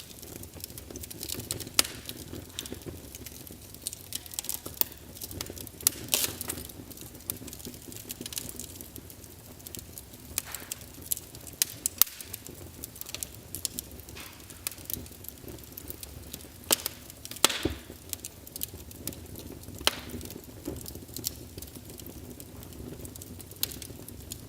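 Wood fire burning in a fireplace, with irregular sharp crackles and pops over a low steady rumble of flame.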